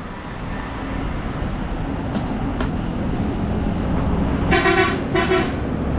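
A vehicle horn sounds twice near the end, two short toots about half a second apart, over a steady rumble of traffic and engines.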